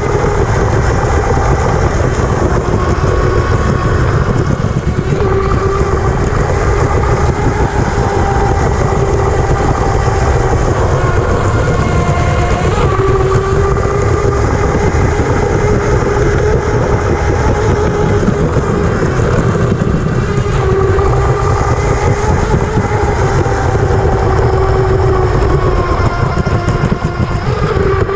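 Electric motor of a 1/12-scale RC unlimited hydroplane whining as it runs, heard from inside the hull's cowling over a loud rumble of hull and water. The whine's pitch rises and falls a little as the speed changes.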